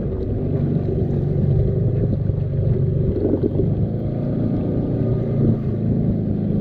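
Kawasaki X2 jet ski's 650 cc two-stroke engine running at a steady cruise on the water.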